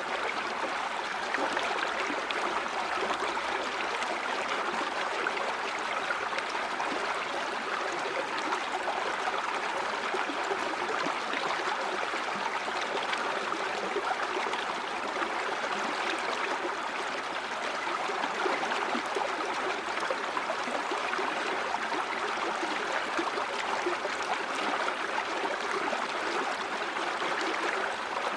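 Steady flowing water of a river or stream running over stones, with a fine splashing and gurgling texture.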